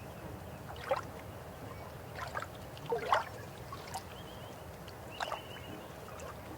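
River water flowing in a steady rush, with a few louder gurgling splashes about a second apart. A bird's short high trill sounds twice in the second half.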